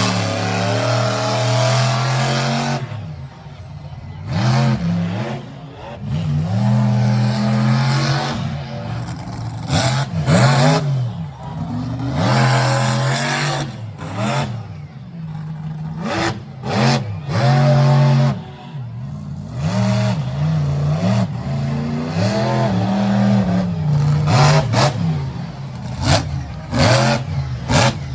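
Monster truck engine revving hard over and over, its pitch climbing and dropping every couple of seconds. A few sharp cracks come in the second half.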